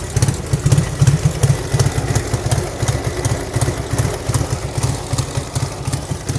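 Dnepr flat-twin motorcycle engine idling with an uneven low pulsing beat while it warms up after a cold start.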